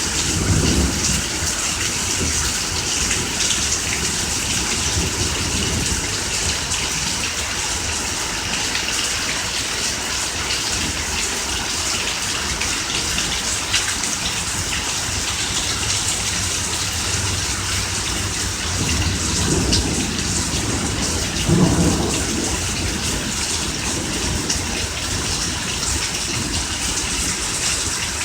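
Steady heavy rain during a thunderstorm, a continuous hiss of falling rain. Low rumbles of thunder swell in at the start and twice more about two thirds of the way through, the last one the loudest.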